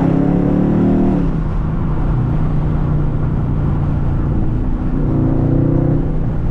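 Dodge Charger Scat Pack's 392 Hemi V8 accelerating: its note climbs and then drops at a gear change about a second in. It then runs steadily, and climbs again briefly about five seconds in.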